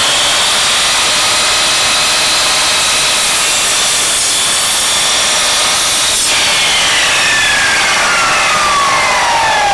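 Electric power saw running loudly with a steady high whine as it cuts wood. About six seconds in it is switched off, and its pitch falls steadily as the blade spins down.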